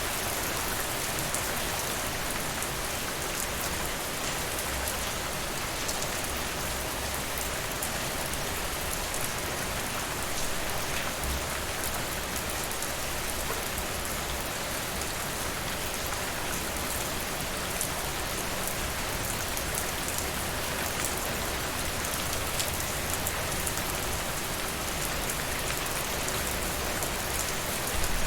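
Steady rain falling, an even hiss throughout, with small scattered ticks and light crackles of a wood fire mixed in.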